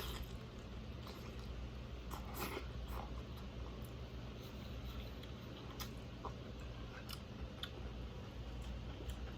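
A person chewing and biting food close to the microphone, with scattered small crunches and wet clicks, over a low steady hum.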